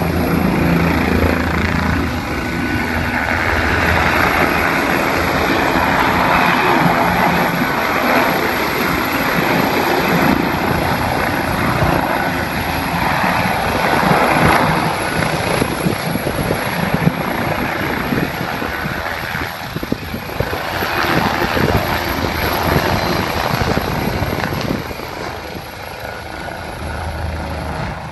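AgustaWestland AW169 twin-turbine helicopter taking off: loud steady rotor and turbine noise, fading somewhat near the end.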